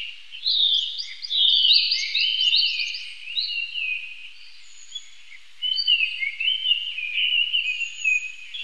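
Birds chirping and calling: many short, overlapping, falling chirps, with a thin high whistle about halfway and again near the end, and a lull in the calling around the middle.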